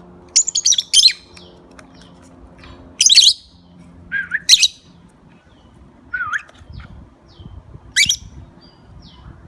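Pet birds giving loud, shrill calls in about five short bursts spread over several seconds, with faint short chirps in between.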